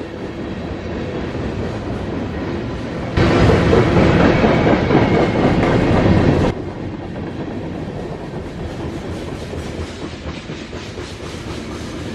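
Freight cars of a CSX mixed freight train rolling past at speed, with a steady rumble and clickety-clack of wheels over the rail joints. About three seconds in, a much louder stretch of noise starts suddenly and cuts off just as suddenly some three seconds later.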